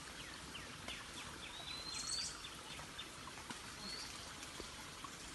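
Birds calling outdoors: a quick run of short falling chirps, about four a second, then a rising whistle about two seconds in and a shorter one near four seconds, over faint steady background noise.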